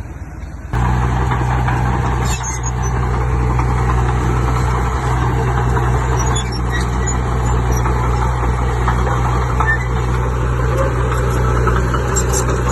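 A heavy diesel engine running steadily with a deep, even drone. Just under a second in, the sound cuts abruptly to a louder, closer engine.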